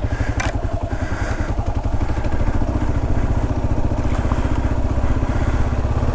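Kawasaki KLR650's single-cylinder engine running at low revs, a steady even pulse.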